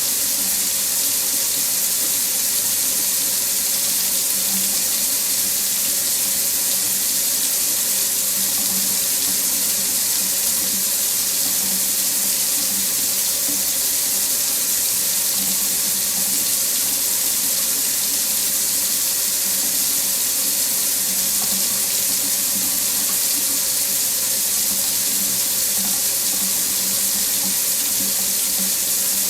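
Water tap running steadily into a sink, a continuous even hiss of splashing water that doesn't change.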